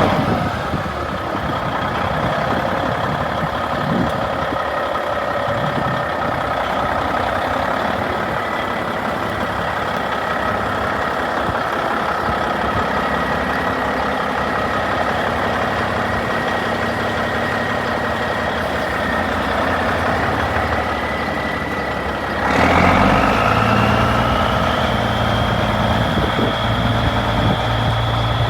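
Diesel engine of a 1996 Freightliner FLD120 semi truck idling steadily just after starting. About 22 seconds in, the engine speed rises and it runs louder, with a high whine climbing in pitch and then holding.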